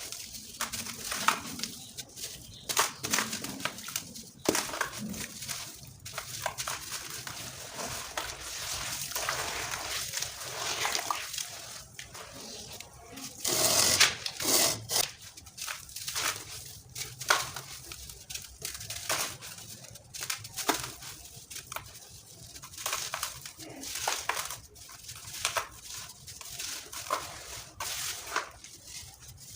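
Dry sand-cement pieces crunching and crumbling in irregular crackly bursts, with a louder, denser crunch about fourteen seconds in.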